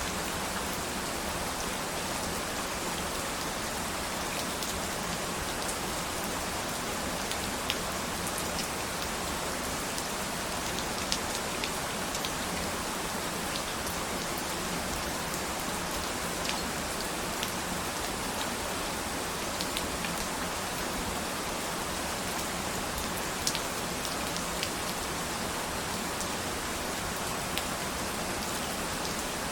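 Steady rain falling on a surface, an even hiss with scattered sharp drop taps now and then.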